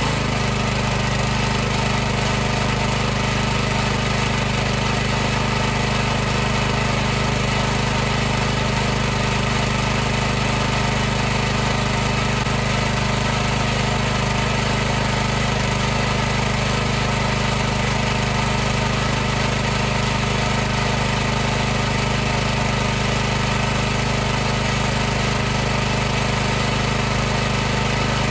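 High-pressure washer running steadily, its motor and water pump giving a constant loud hum with a dense hiss over it, without change.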